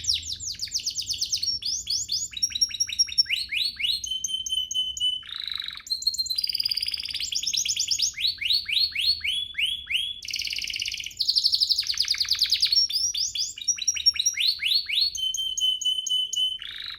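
Domestic canary singing continuously, rapid rolling trills of quick repeated notes alternating with clear held whistles.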